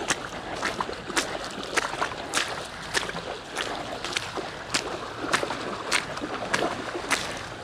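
A hiker's footsteps splashing and sloshing through shallow water on estuary tidal flats, in an even walking rhythm of about one step every 0.6 seconds.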